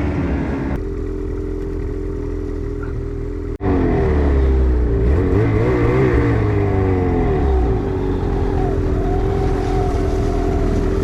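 Ski-Doo snowmobile engine running under throttle. The sound breaks off briefly about three and a half seconds in; after that it is louder and its pitch rises and falls as the throttle is worked.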